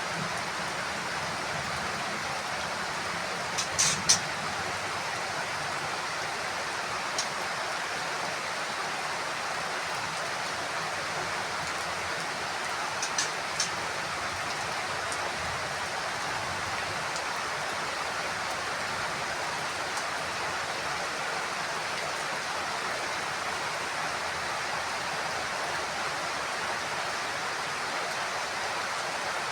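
Heavy rain falling steadily on a house roof, an even hiss, with a few sharp drip-like taps in the first half.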